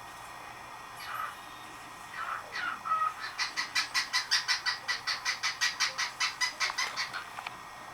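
Male lutino cockatiel singing its male song: a few whistled chirps, then a fast run of short repeated notes at about five a second for some four seconds.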